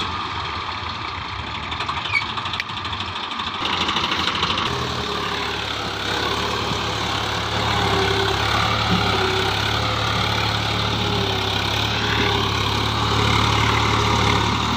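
Swaraj 735 FE tractor's three-cylinder diesel engine running steadily under heavy load while towing a loaded truck. Its low, even engine note firms up and grows slightly louder about five seconds in.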